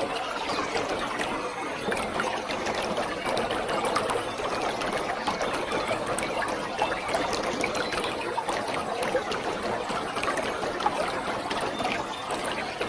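Waterfall: water falling and splashing steadily, a dense unbroken rush full of small splashes.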